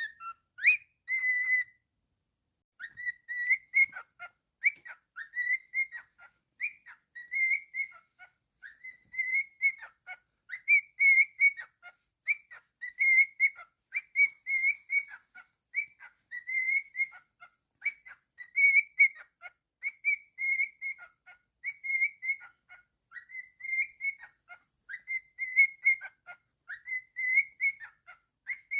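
Cockatiel whistling a tune: a long run of short, clear whistled notes in quick phrases, starting up again after a brief pause about two seconds in.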